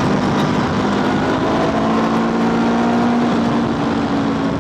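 Honda scooter engine running under way, its note climbing slowly, over a steady rush of wind on the microphone.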